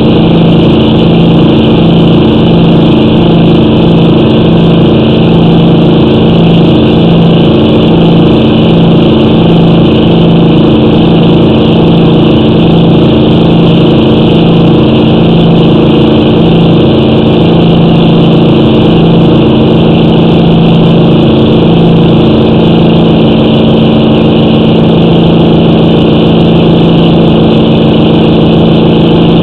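An engine running steadily at one speed, with a regular throb about one and a half times a second.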